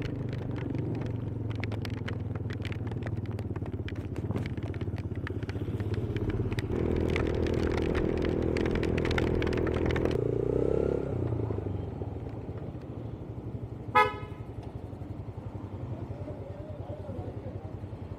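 Yamaha YBR 125G's single-cylinder four-stroke engine running steadily on the move, with a patter of sharp clicks and knocks over the first ten seconds or so. A vehicle horn sounds for about three seconds from around seven seconds in, and a second, short higher horn toot comes about fourteen seconds in.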